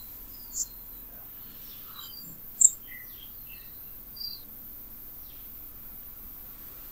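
Faint, scattered high-pitched bird chirps at irregular intervals and varying pitch, with one sharper chirp a little before the middle, over a low steady background hiss.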